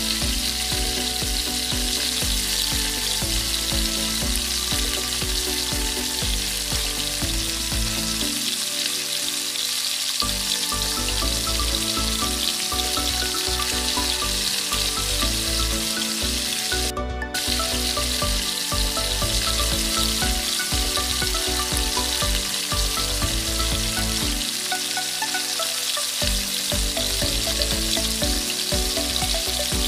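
Yard-long beans, yellow bell pepper and corn sizzling steadily as they stir-fry in a hot nonstick pan, with a spatula scraping and turning them. The sizzle breaks off briefly about halfway through.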